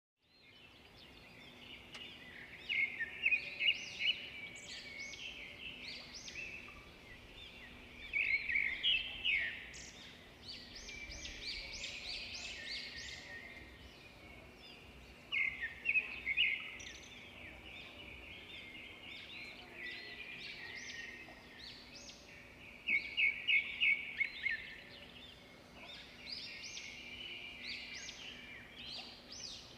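Small birds chirping at a nest in repeated bursts of rapid, high-pitched calls every few seconds, with a faint steady hum underneath.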